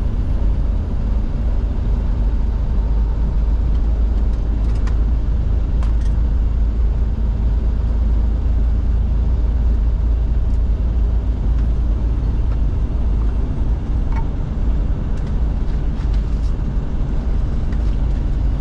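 Truck running down the road: a steady low rumble of engine and road noise, with a few faint ticks now and then.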